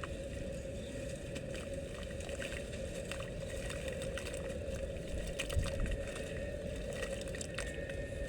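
Dry red dirt crumbling as it soaks in water: many small crackles, pops and bubbles over a steady low rumble, with a louder low bump about five and a half seconds in.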